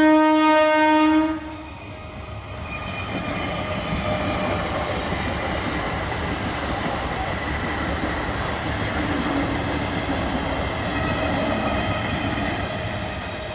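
Electric local train's horn sounding a long blast that cuts off about a second in. The train then runs close past with a steady rumble and wheel clatter on the rails.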